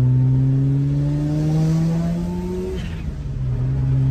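Car engine accelerating under load. Its pitch climbs slowly, drops sharply at a gear change near three seconds in, then climbs again.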